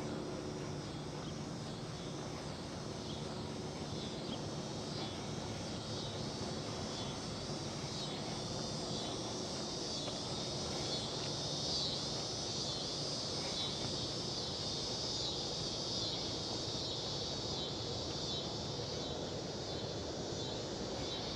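A chorus of cicadas buzzing steadily in pulsing waves, growing louder toward the middle, over a low rumble of distant traffic.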